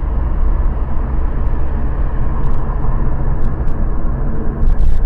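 Car on the move heard from inside the cabin: a steady low rumble of engine and road noise, with a few light clicks in the second half.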